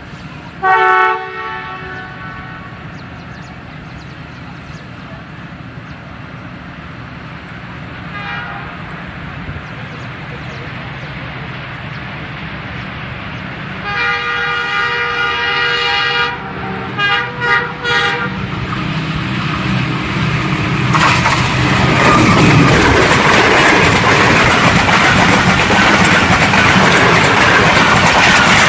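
Train horn sounding from inside a passenger coach: a short loud blast about a second in, a faint one around eight seconds, a longer blast around fourteen seconds, then a few short toots. From about twenty-one seconds the loud rumble and rattle of the moving train rises and holds.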